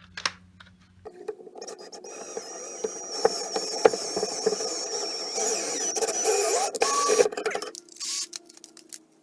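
A thread tap cutting threads into a drilled hole in sheet metal: about six seconds of uneven metal-on-metal grinding and creaking with scattered clicks, stopping near the end. A short burst of a running drill motor comes before it, cutting off about a second in.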